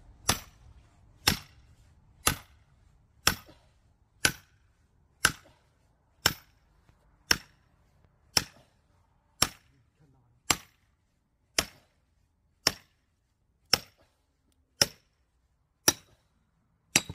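Sledgehammer striking a steel splitting wedge set in a log of firewood: sharp metallic blows with a brief high ring, in a steady rhythm of about one a second, seventeen strikes in all.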